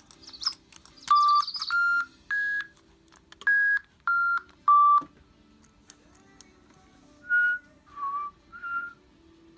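A bird whistling a string of clear, steady notes at a few different pitches, each held about a third of a second. Short high chirps come near the start, then a pause, and three softer notes follow near the end.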